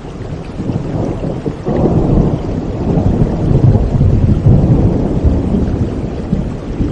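Steady rushing water noise with a deep rumble that swells about two seconds in and stays loud.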